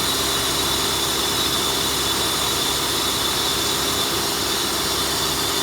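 Car engine idling steadily with a misfire, running the same with the connector pulled from one ignition coil: that cylinder is already dead, which the mechanic takes for a bad coil.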